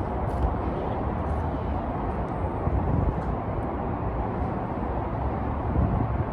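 JR E257 series limited express train running along the platform, a steady rumble, with wind buffeting the microphone.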